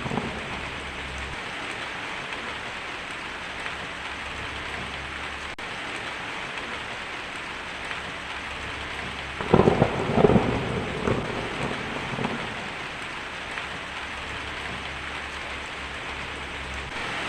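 Steady heavy rain falling, with a crackling roll of thunder about halfway through that dies away over a few seconds.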